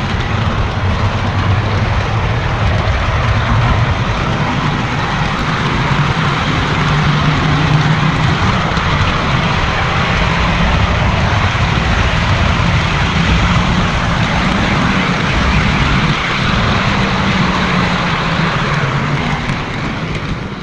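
Model train running on the layout, heard up close: a loud, steady rumble and whir of wheels on the rails and the locomotive's motor, with a low hum that wavers slightly in pitch. It cuts off abruptly at the end.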